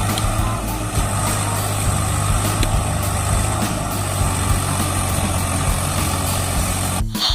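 A heavy vehicle engine running steadily at idle, a low rumble that cuts off suddenly near the end.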